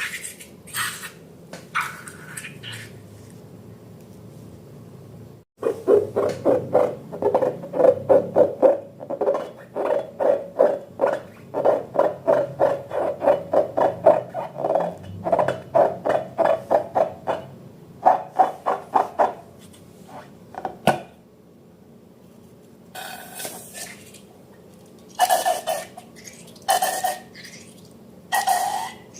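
Rubber balloon squeaking in a rapid run of short pitched squeaks, about three or four a second, starting about five seconds in. Near the end come a few separate squeals that bend in pitch, as air is let out through the neck.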